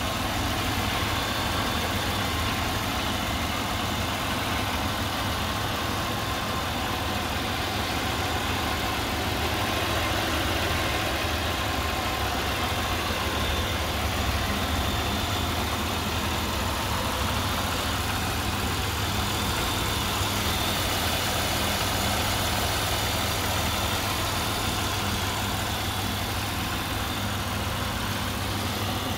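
A Buick 3800 Series III V6 idling steadily and fairly quietly, heard from over the open engine bay.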